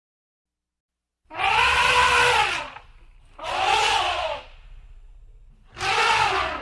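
An animal calling three times, each call about a second long, rising and then falling in pitch.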